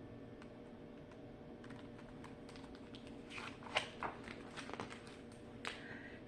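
Faint clicks and light taps from a picture book being handled and its page turned, over a low steady room hum.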